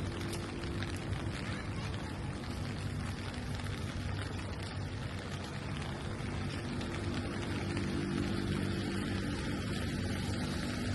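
Steady rain falling on the street, with the low hum of a vehicle engine that grows louder in the second half.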